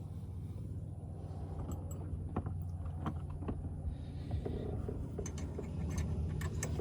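Scattered light clicks and knocks of hands handling wiring, parts and tools over a steady low hum.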